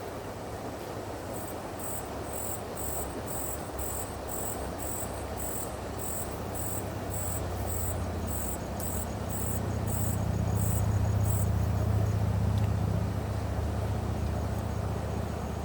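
An insect calling in evenly spaced, high-pitched pulses, about two a second, stopping about eleven seconds in. Beneath it runs a steady low rumble that grows louder midway.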